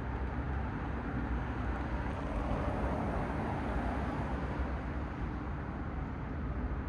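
Road traffic: steady tyre and engine noise of passing cars over a constant low rumble, with one car passing louder about two to four seconds in.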